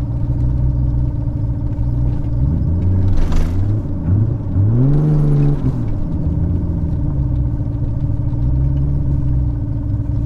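Mk3 Toyota Supra's turbocharged 7M-GTE straight-six running under way, with a steady drone. About halfway through its pitch rises and then falls as it speeds up and eases off, with a brief whoosh about three seconds in.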